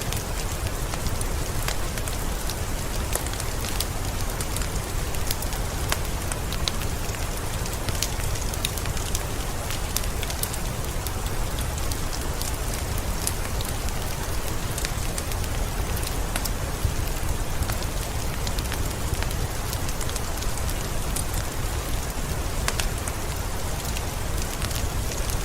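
Steady rain falling, with many small sharp crackles from a wood fire scattered through it.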